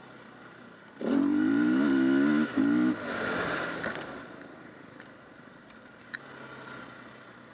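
KTM 500 EXC's single-cylinder four-stroke engine on the trail: running softly, then opened up loud about a second in for two seconds before the throttle is shut and it fades back to a low running note.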